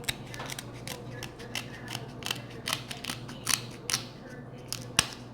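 Snow crab shells being cracked and picked apart: a quick, irregular run of sharp clicks and snaps, one louder crack about five seconds in, over a steady low hum.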